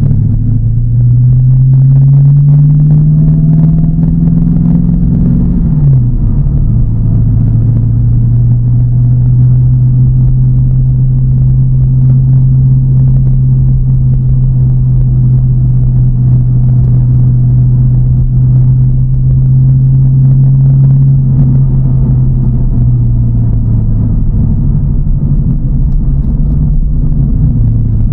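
TVR Chimaera's tuned 4.65-litre V8 engine pulling under acceleration, its note rising for about five seconds, then dropping sharply at a gear change and holding steady at cruise before easing off near the end.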